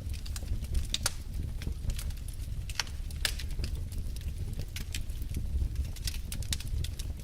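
Wood fire burning in a fireplace: a low steady rumble of the flames with many sharp, irregular crackles and pops from the burning logs.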